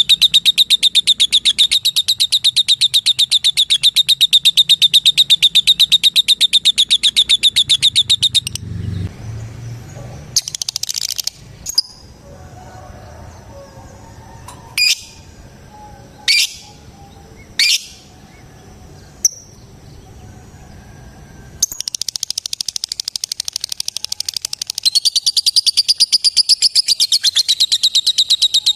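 Lovebird's long, rapid chattering trill ('ngekek'), an even run of fast high-pitched pulses; it stops after about eight seconds, leaving only a few separate sharp chirps, and starts again near the end.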